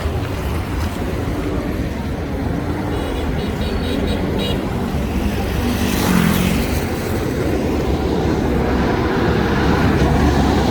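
Street traffic running steadily: engine rumble and road noise, with one vehicle passing close about six seconds in, its tone falling as it goes by.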